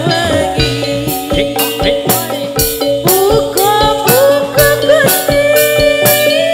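Live band music for a Javanese folk dance performance in an instrumental passage between sung lines: a pitched melody, some notes sliding, over bright percussion strokes about twice a second.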